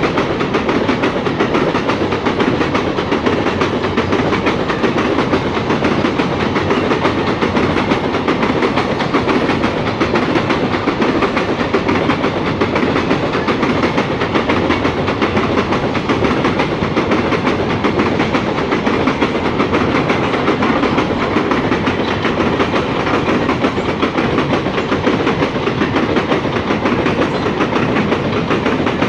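Freight train wagons rolling past on the line: a loud, steady, unbroken noise of steel wheels on rail that holds the same for the whole stretch.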